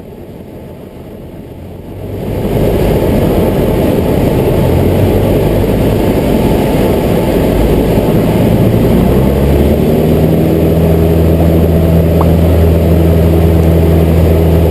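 Aircraft engine running: a loud rumble rises about two seconds in, and after a few more seconds it settles into a steady, even-pitched drone.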